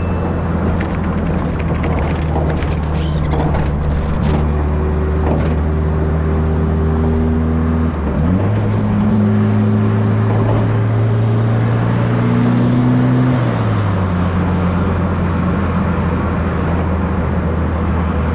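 Turbocharged Chevrolet Chevette engine running steadily. Its revs step up a little about eight seconds in, hold, and drop back about five seconds later. Fast clicking is heard in the first few seconds.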